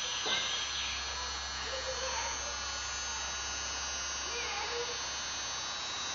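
Steady electrical hum and buzz with a faint high whine, under faint distant voices.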